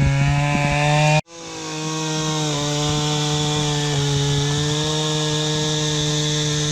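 Chainsaw running steadily at high speed, cutting fallen eucalyptus trunks. The sound cuts out abruptly about a second in, then picks up again with slight dips in pitch as the chain bites.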